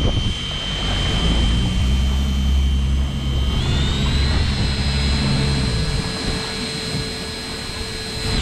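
Electric fishing reel winding in line with a steady high motor whine that steps up in pitch about three and a half seconds in. Under it runs a low engine rumble that fades out about six seconds in.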